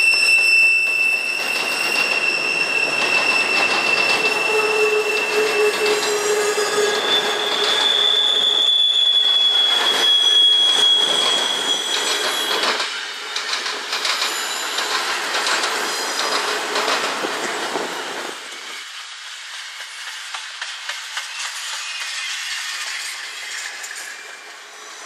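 Intermodal freight train rolling through a railroad crossing diamond: steady rolling noise with long, high wheel squeals and quick clacking of wheels over the rail joints. About three quarters of the way in the low rumble cuts off sharply, and a fainter rolling sound is left.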